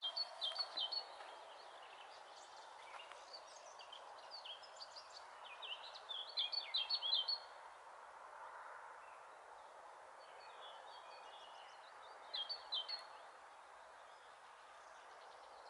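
A songbird singing short phrases of quick high notes, about five phrases with pauses between them, the loudest around six to seven seconds in, over a steady faint outdoor rush.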